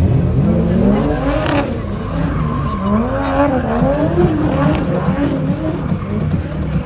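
Car engine revving hard up and down again and again, with tyres squealing as the car is driven in slides.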